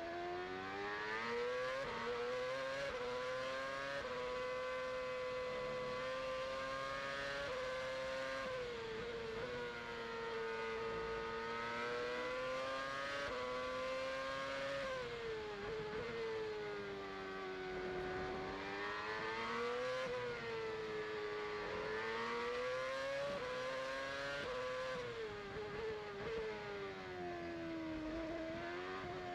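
Virgin Racing Formula One car's Cosworth 2.4-litre V8 engine heard onboard at racing speed. It screams up through the revs with sudden drops at each upshift, and twice or so winds down under braking and downshifts before climbing again.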